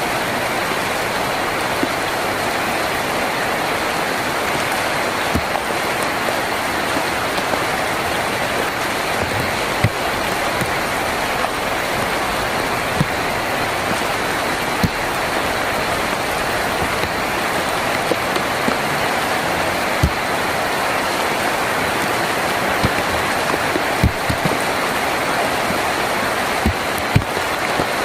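Steady heavy rain drumming on a tin roof, with a few sharper single taps standing out now and then.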